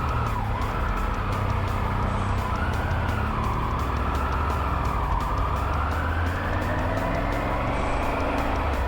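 A road vehicle's engine running steadily on the move, with a high tone over it that rises and falls slowly several times.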